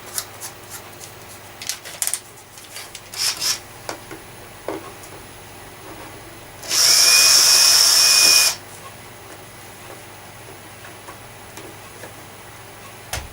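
Small tool clicks and rattles, then a power drill-driver runs steadily for about two seconds, with a thin motor whine through it. It is undoing a screw on the vacuum cleaner's casing.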